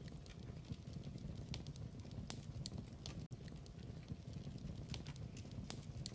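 Wood fire in a fireplace crackling, with irregular sharp pops and snaps over a steady low rumble of burning. The sound cuts out for an instant just past halfway.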